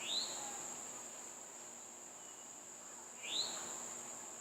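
Steady high-pitched drone of insects, with a bird giving two short rising chirps about three seconds apart.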